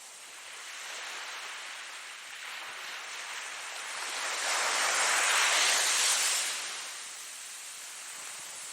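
Ocean waves breaking and washing in. The surf hiss swells to one loud peak about halfway through, then falls back to a steady wash.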